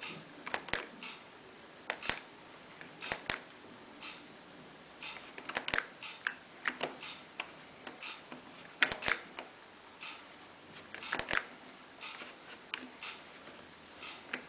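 Control panel of a Miele PW6055 Plus washing machine clicking as its programmes are stepped through: short sharp clicks, often in pairs, every second or two.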